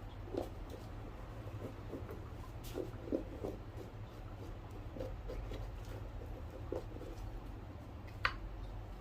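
Cobbler's hands working on a shoe: soft, irregular taps and rubs over a steady low hum, with one sharper click near the end.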